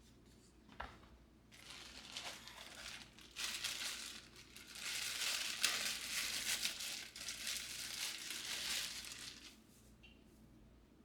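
Crinkling and rustling, as of something being crumpled and handled, from about a second and a half in until near the end, with a single click just before it starts.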